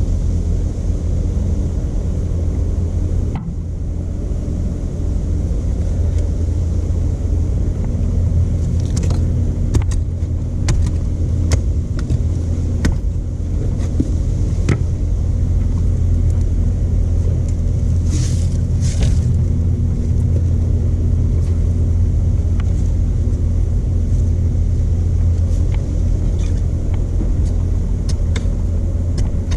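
Stump grinder's 13 HP Honda engine running steadily under work, a deep even drone, with scattered sharp ticks from about eight seconds in and two short hisses about eighteen seconds in.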